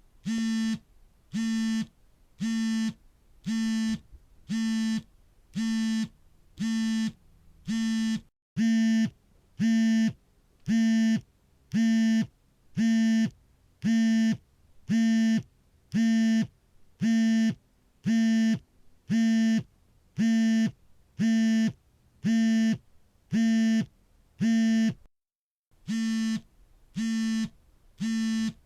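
Smartphone vibrating with an incoming call: short, steady-pitched buzzes about one a second. They become louder about a third of the way in and skip one beat near the end.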